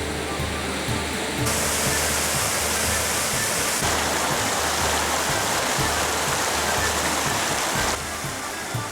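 Rushing water, a dense steady roar that grows brighter about a second and a half in and drops back shortly before the end, with background music underneath.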